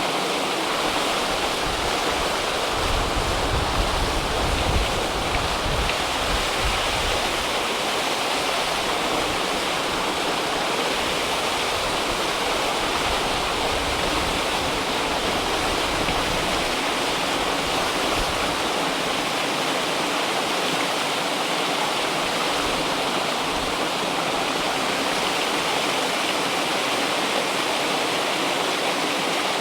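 River water rushing steadily, a continuous even roar of flowing water, with a deeper low rumble swelling in for several seconds near the start.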